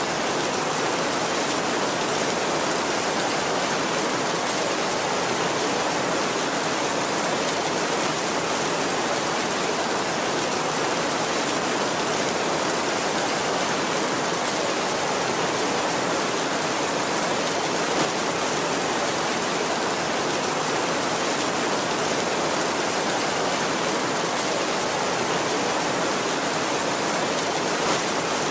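Heavy rain falling steadily on a tin roof, an even dense hiss with no thunder.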